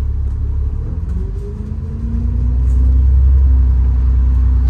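Low rumble of a city bus's engine heard from inside the cabin. About two seconds in, a whine rises in pitch and the sound grows louder as the bus accelerates, then holds steady.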